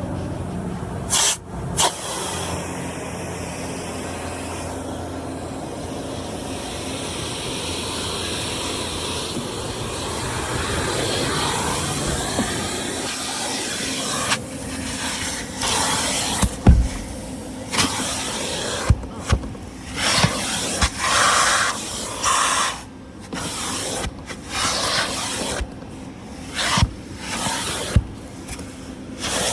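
Automatic tunnel car wash: water jets spraying and hissing against the car, steady for the first half, then in sudden on-off bursts from about halfway through.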